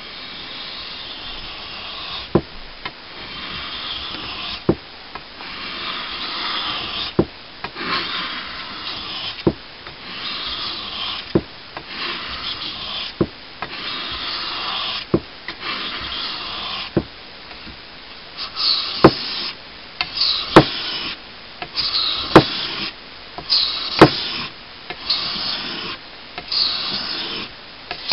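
Steel blade being drawn back and forth across a wet water stone. Each gritty scraping stroke lasts one to two seconds and ends in a sharp click as the blade changes direction. From about two-thirds of the way in, the strokes are shorter and louder.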